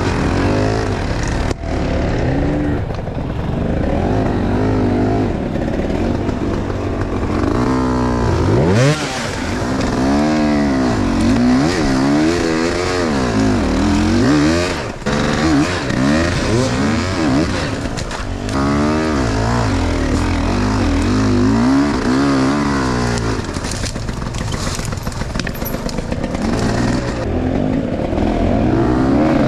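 Enduro motorcycle engine revving up and down again and again as it is ridden over rough off-road ground, its pitch swinging with each burst of throttle.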